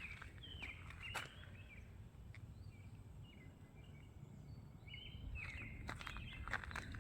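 Birds chirping in short, falling notes, several times, over a steady low rumble.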